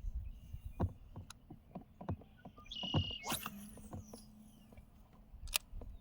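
Scattered small knocks and clicks of fishing gear against a kayak hull. A brief high sweep comes a little after halfway, and a sharp click near the end.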